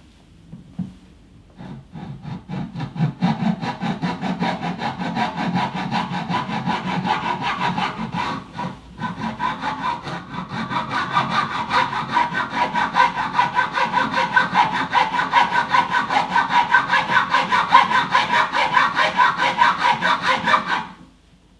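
Saw cutting into the oud's wood with steady back-and-forth strokes. There is a short pause about eight seconds in, then the strokes go faster and louder until they stop shortly before the end.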